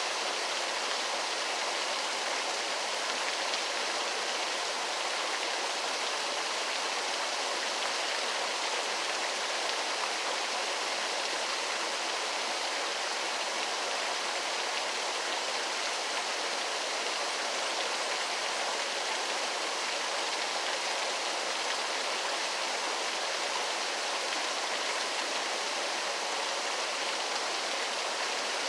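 Waterfall: water rushing and splashing in a steady, unbroken hiss with no change in level.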